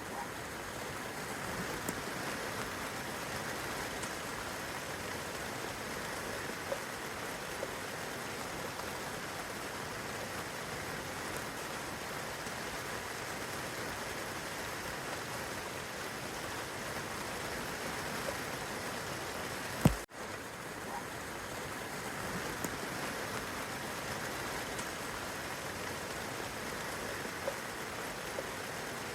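Steady rain falling on leaves and grass, with scattered faint drip ticks. A single sharp click about two-thirds of the way through, followed by a brief dip in the rain sound.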